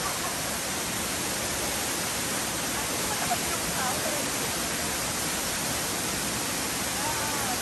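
Waterfall: a steady, even rush of falling water with no change in level, and faint voices in the background about halfway through and near the end.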